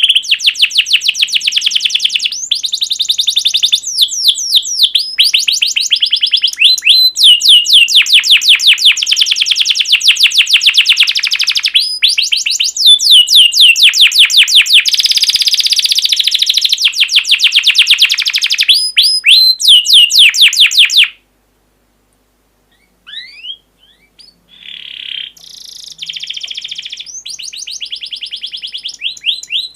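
A songbird sings long, fast runs of sharp, repeated chirping notes, several a second. This is the kind of recorded birdsong played as 'masteran' for caged songbirds to copy. The song breaks off after about twenty seconds, and a softer, more varied call picks up again shortly after.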